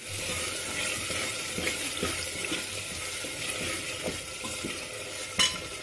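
Tomato and onion masala sizzling in hot oil in a pressure cooker, a steady hiss, as a steel ladle stirs it with scattered scrapes and clicks against the pot. One louder knock of the ladle comes near the end.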